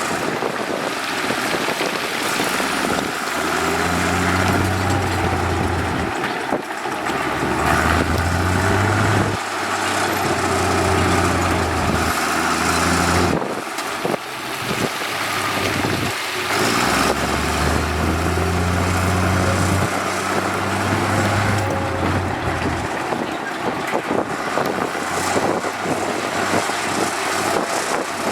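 Heavy diesel construction-machine engine running, its low note swelling in several spells of a few seconds each as the throttle is worked.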